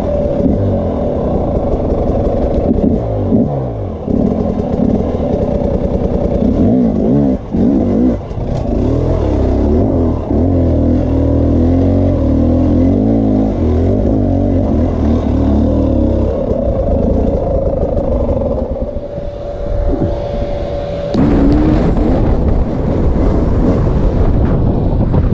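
Off-road dirt bike engines revving up and down, rising and falling in pitch, with a few brief drops in throttle. Near the end the sound changes abruptly to a different engine note.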